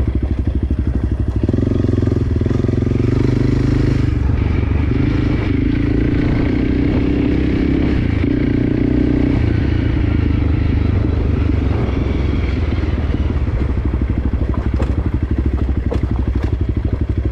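Enduro dirt bike engine running under way on a trail. The engine note rises about a second and a half in, holds, then eases back after about the halfway point.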